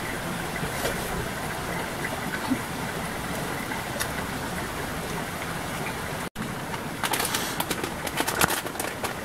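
Campfire burning with a steady hiss and scattered crackles; after a brief break about two-thirds of the way through, the crackling gets denser, with many sharp pops.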